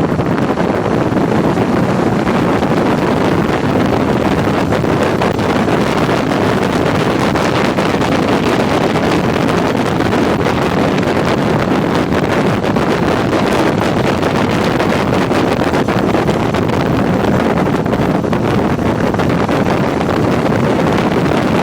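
Steady wind rush on the microphone of a moving motorcycle, with the vehicle's running noise underneath.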